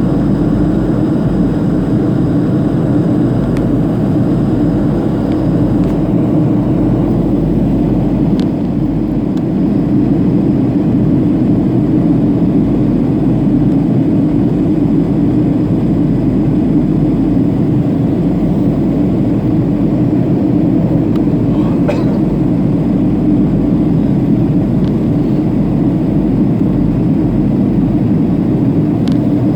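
Boeing 737-500 cabin noise in flight: the steady, loud drone of its CFM56-3 turbofan engines and the airflow, heard from inside the passenger cabin.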